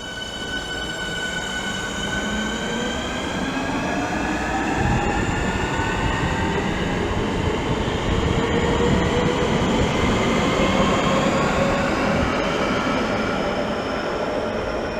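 Class 465 Networker electric train pulling away and accelerating. Its traction motor whine climbs slowly in pitch over the rumble of the wheels, growing louder toward the middle.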